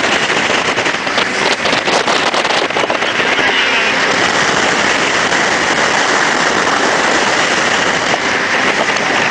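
Jet boat running at speed: a steady rush of engine, water jet and hull noise, with wind and spray buffeting the microphone, rougher with crackles in the first few seconds.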